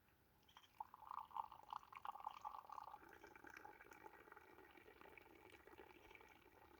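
Faint sound of liquid being poured, starting about half a second in and fading near the end.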